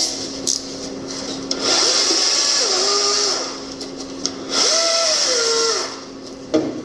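Handheld electric power tool run in two bursts of about two seconds and a second, its motor pitch rising and falling each time under a high hiss. A short knock near the end.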